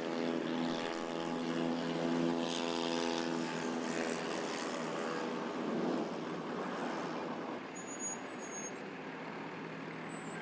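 A large vehicle's engine running with a steady drone that fades after about five seconds, and a short burst of hiss about three seconds in.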